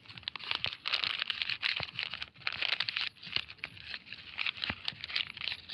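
Plastic litter crinkling and rustling as it is handled, a dense run of small crackles.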